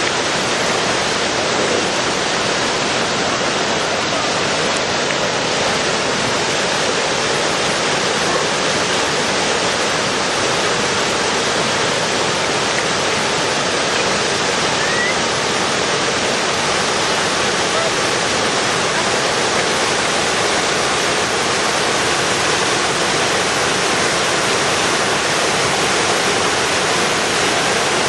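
A waterfall rushing: a steady wash of falling water that does not let up.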